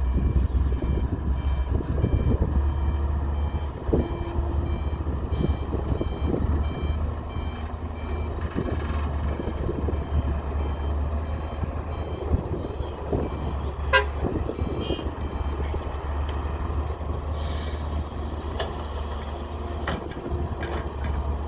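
Heavy diesel engine of a wheeled excavator running steadily under load, with a reversing alarm beeping during the first several seconds and again near the end. Occasional knocks and one sharp metallic clank about two-thirds of the way through.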